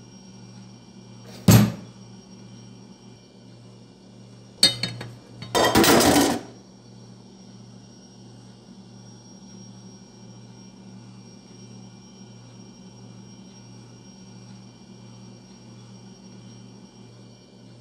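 A sharp knock, then a quick rattle and a louder clatter about a second long, over a steady low hum.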